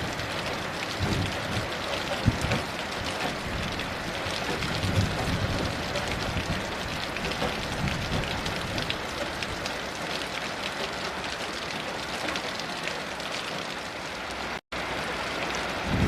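Steady heavy rain, a dense patter of drops on surfaces, with low rumbles of distant thunder in the first few seconds. The sound cuts out for an instant near the end.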